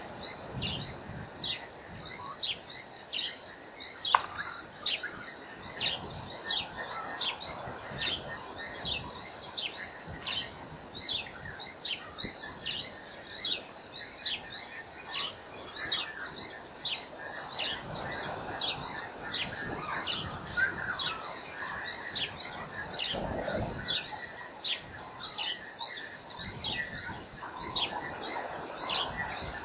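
Bird calling, repeating a short high note that drops in pitch about twice a second, over a low outdoor hiss; a single sharp click sounds about four seconds in.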